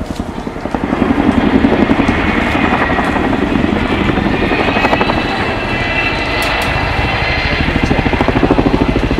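Boeing Chinook twin-rotor helicopter flying past, its rotors beating in fast, steady pulses under a high whine. It grows louder about a second in.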